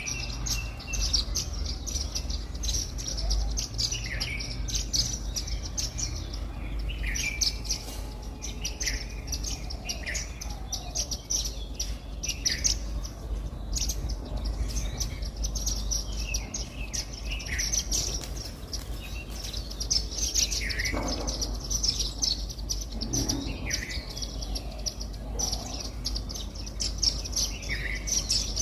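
A flock of Indian silverbills (white-throated munias) chirping steadily as they feed: a dense run of short, high chirps, with lower down-slurred call notes every second or two, over a low steady rumble.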